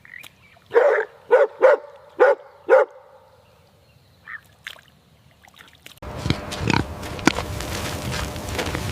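An animal gives five short, loud, pitched calls in quick succession. About six seconds in, a steady noisy background begins, with further animal sounds over it.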